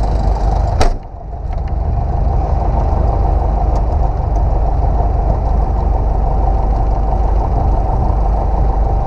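Single-engine light aircraft's piston engine and propeller running steadily, heard inside the cabin. A sharp click comes about a second in, with a brief dip in the drone just after it.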